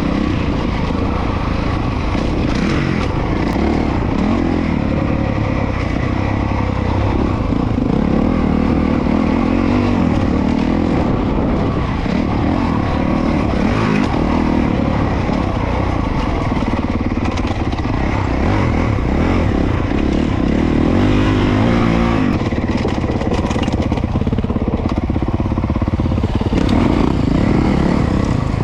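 Honda CRF450RWE single-cylinder four-stroke motocross bike being ridden, its engine revving up and down with the throttle.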